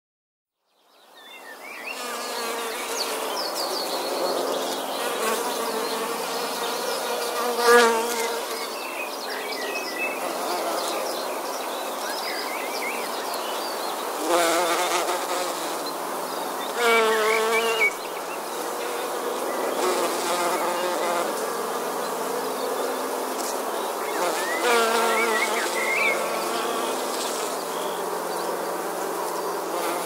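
Many honeybees buzzing together in a dense, steady hum, fading in about a second in. Several times a single bee passes close, and the buzz swells and wavers in pitch, most strongly about eight and seventeen seconds in.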